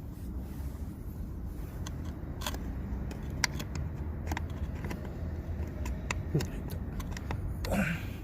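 Scattered sharp clicks and clinks of metal parts and hand tools being handled while working on the shift lever of a Suzuki Jimny's transmission, over a low steady hum.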